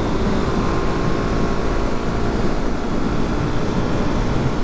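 Suzuki DR-Z400's single-cylinder engine and wind rush while riding at steady road speed, a constant drone and roar with no change in pace.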